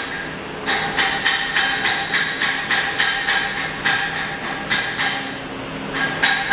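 A hammer striking steel in quick, even blows, about four a second, each ringing metallically, with two short pauses.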